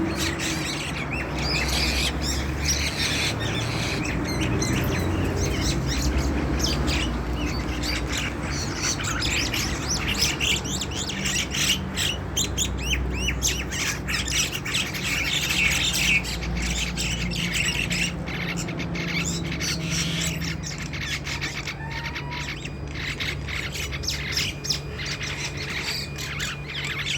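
Several small birds squabbling, with dense, rapid chirps and harsh squawks going on throughout over a low background rumble.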